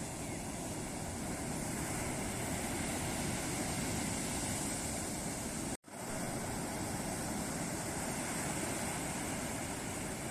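Ocean surf: a steady wash of breaking waves on a beach, cutting out to silence for an instant a little past halfway through, then carrying on.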